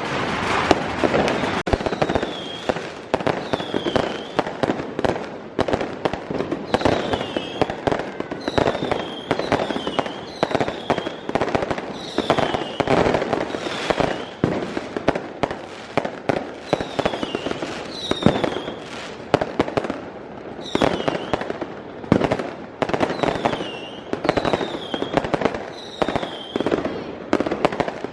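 Fireworks and firecrackers going off in rapid succession: a dense, continuous string of bangs and crackles, with short falling whistles every second or two.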